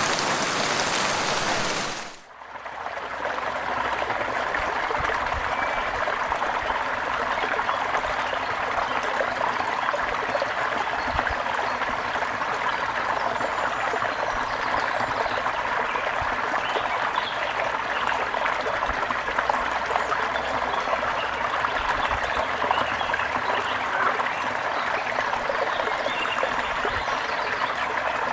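A brook flowing and trickling steadily. Before it, a wide even hiss fades out about two seconds in.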